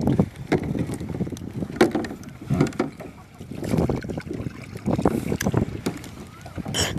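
Water splashing and sloshing around a small paddled boat in irregular surges, with wind buffeting the microphone.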